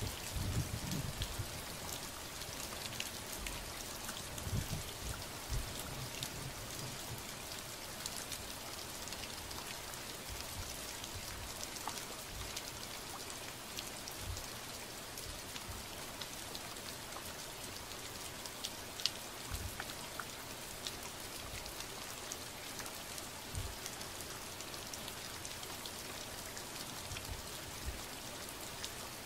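Steady rain falling, with many scattered sharp drop ticks and a few low thumps, most of them in the first few seconds.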